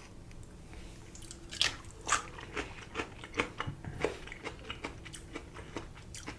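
Chewing pickled sushi ginger: a run of crisp, irregular crunches and wet mouth clicks, starting about a second and a half in.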